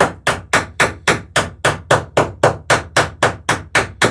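Hammer riveting the plank laps of a wooden dory, striking rivets in a fast, even rhythm of about three and a half blows a second.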